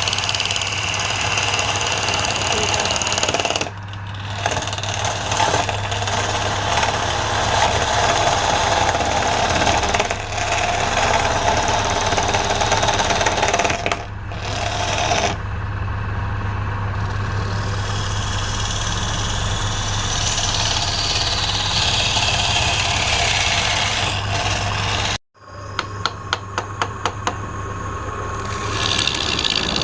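Wood lathe running with a steady motor hum while a turning tool cuts the spinning wood, with the cutting noise breaking off abruptly several times. After the last break there is a quick run of sharp ticks.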